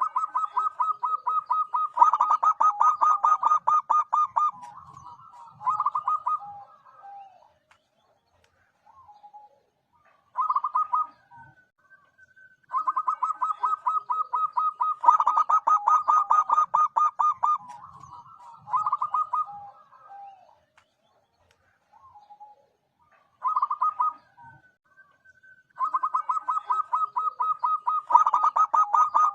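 Zebra dove (perkutut) calling: three bouts of fast staccato cooing notes, each a run of a few seconds followed by shorter bursts, with pauses between.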